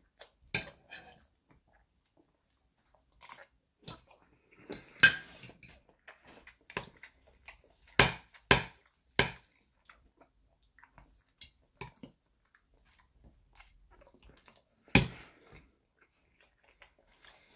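Close chewing of French toast, with sharp clinks and scrapes of a metal fork and knife against a plate. The clinks come irregularly, with a run of three about halfway through.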